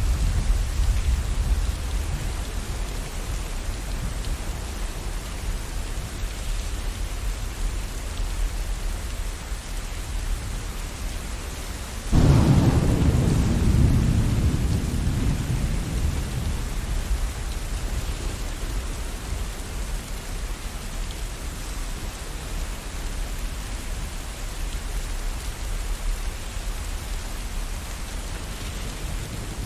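Steady rain with thunder: a low rumble at first that dies away, then a sudden thunderclap about twelve seconds in that rumbles out over the next four or five seconds.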